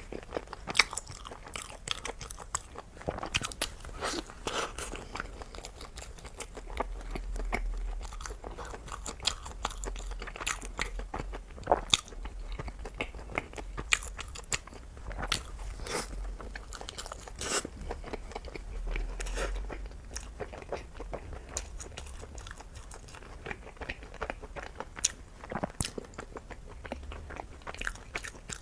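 Close-miked eating: a person biting and chewing crunchy food, with many sharp, irregular crunches.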